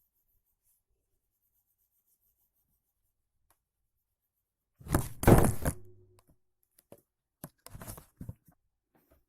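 Drawing materials being handled: after a quiet stretch, a loud rough scrape or rustle about five seconds in lasts about a second, followed by a few short scrapes and knocks.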